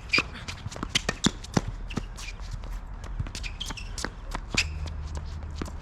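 Players' shoes shuffling and scuffing on a tennis court, with many short, sharp knocks and ticks at uneven spacing.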